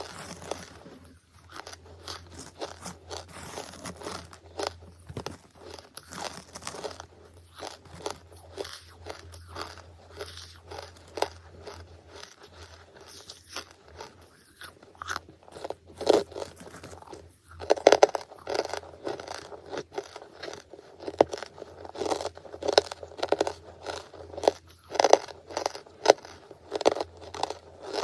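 Close-miked biting and chewing of charcoal: a steady run of crisp crunches and small cracks, growing louder and denser about halfway through.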